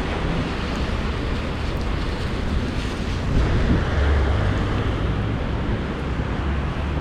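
Wind gusting over a chest-mounted action camera's microphone: a steady rushing noise with uneven low rumbling buffets.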